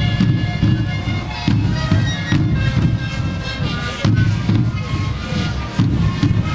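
Sikuri ensemble: many siku panpipes blown together in a breathy, reedy unison melody, over heavy bombo drum beats.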